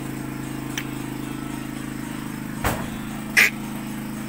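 A steady, low engine hum runs throughout, with a faint short high chirp about a second in and two short sharp noises near the end, the last the loudest.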